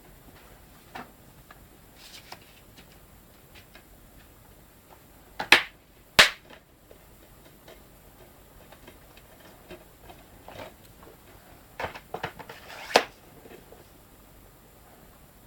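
Scattered clicks and taps from hands handling plastic DVD cases and boxset packaging. There are two sharp clicks about five and a half and six seconds in, and a few more near the end.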